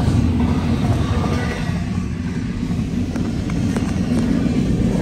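Double-stack container freight train rolling past, a steady low rumble of wheels on rail.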